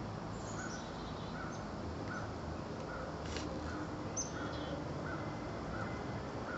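A bird calling over and over, one short note repeated at an even pace of a little more than one per second, with a few faint higher chirps from other birds over a steady outdoor background hiss.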